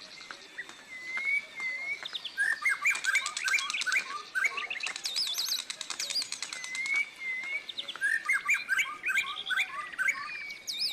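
Several songbirds singing together: repeated rising-and-falling whistles, bursts of quick chirps and a fast high trill overlapping, with two busier stretches near the middle and near the end.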